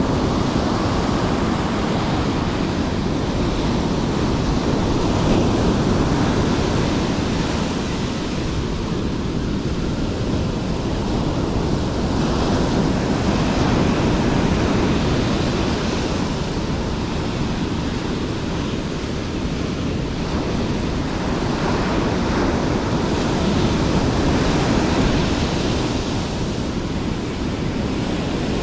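Surf breaking, the noise swelling and easing every several seconds, with heavy wind noise on the microphone.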